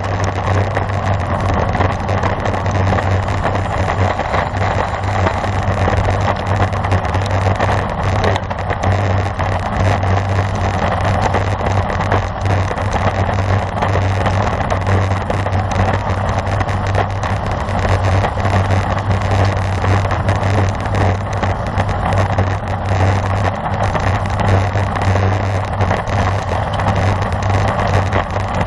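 Steady rush of wind buffeting the microphone of a camera riding on a moving road bicycle, with a constant low rumble and no single event standing out.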